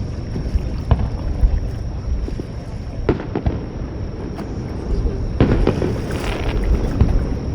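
Fireworks shells bursting with several sharp bangs over a steady low rumble. About six seconds in there is a crackling hiss.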